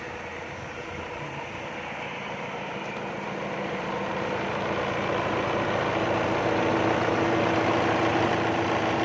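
Kubota L5018 tractor's diesel engine running steadily at low speed, under 1,000 rpm, driving a water pump through a belt pulley. The sound grows louder from about halfway through.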